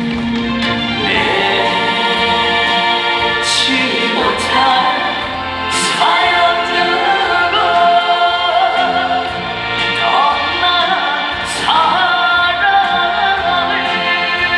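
Live trot band music: a wavering lead melody over a steady beat, with cymbal crashes several times.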